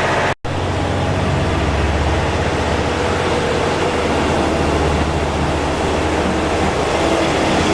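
Diesel railcar engine running steadily, with a deep low hum. Near the start the sound cuts out for an instant, then carries on.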